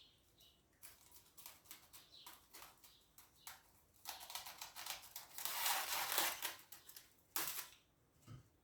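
Kitchen handling sounds: a run of light clicks and rustles, then a louder rushing, scraping noise for about three seconds, a sharp clack, and a low thump near the end.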